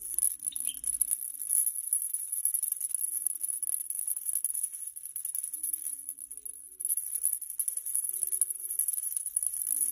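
A maraca shaken rapidly, a continuous fast rattling of beads that swells and dips with the shaking.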